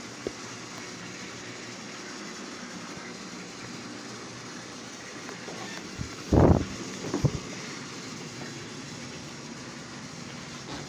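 Battery-powered TrackMaster toy trains running on plastic track, a steady motor whir with wheel rattle. About six seconds in come a loud knock and then two smaller ones.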